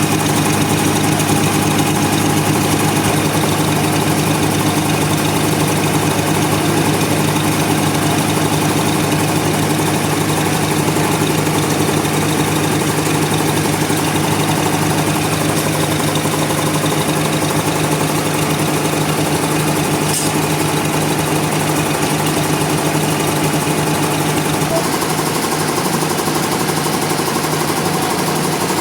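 A sawmill's engine running steadily with a constant mechanical drone, its low tone shifting slightly near the end.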